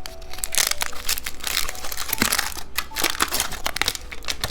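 Candy wrapper crinkling as it is handled, with many quick, irregular crackles.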